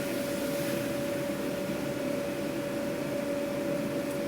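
Steady hum of a food truck's kitchen machinery: a constant whine over an even fan-like rush.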